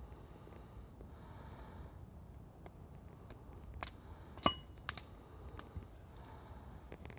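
Wood campfire crackling: a low steady hiss broken by a handful of sharp pops and snaps, the loudest about halfway through.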